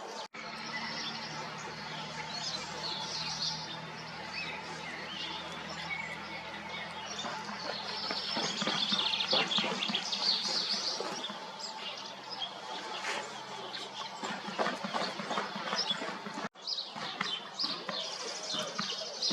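Several small songbirds chirping and singing, with many short calls overlapping. A low steady hum sits underneath during the first half.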